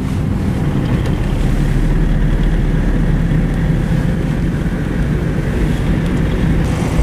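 Mazda Navajo SUV driving at steady speed, heard from inside the cabin: a continuous low drone from its 4.0-litre V6 engine and drivetrain, with steady road and tyre noise.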